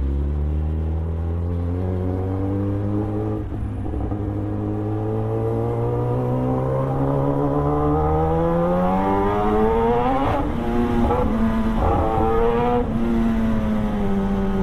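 Kawasaki Ninja ZX-10R's inline-four engine pulling under acceleration, its note rising steadily for about ten seconds. Near the end the pitch drops and climbs again a couple of times before settling.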